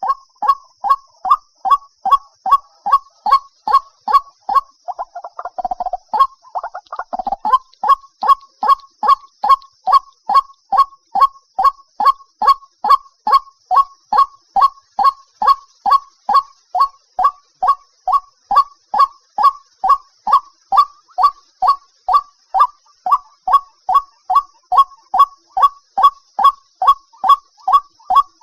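White-breasted waterhen calling: a loud, even series of repeated notes, about two a second, breaking briefly into a rougher, lower jumble about five seconds in before the steady series resumes.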